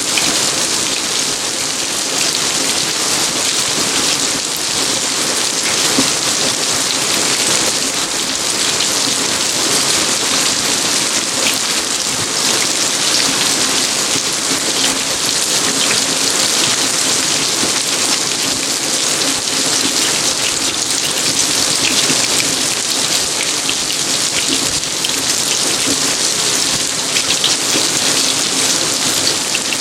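Steady rain falling in a garden: a dense, even hiss of drops pattering on surfaces.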